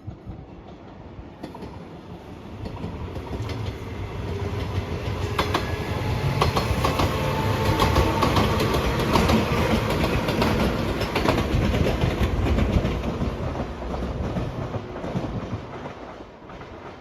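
A train passing at speed, its wheels clattering over the rail joints, building up, peaking and then fading away.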